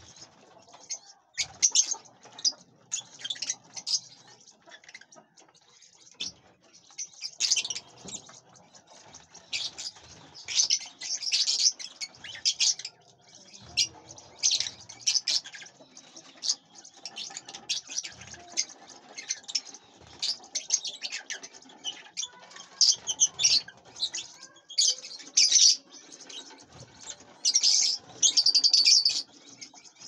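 Aviary birds chirping in quick, irregular bursts of high-pitched calls, busiest toward the end.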